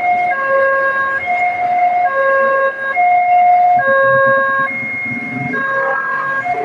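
Railway level-crossing warning alarm sounding a two-tone alternating signal, a higher and a lower tone swapping a little under once a second. A low vehicle rumble rises underneath in the second half.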